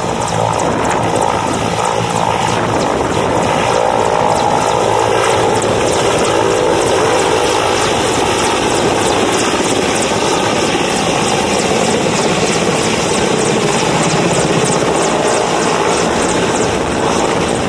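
Mil military helicopter running close by: steady turbine noise with the rhythmic beat of the rotor blades throughout.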